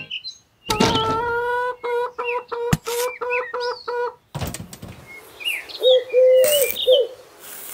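Birds chirping, with repeated low cooing calls like a dove's, and a few short sharp knocks in between.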